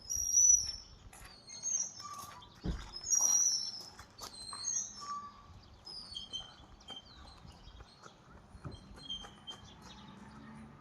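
Small birds chirping: short, high calls from several birds overlap and come and go, busiest in the first few seconds and sparser later. A dull knock is heard about three seconds in.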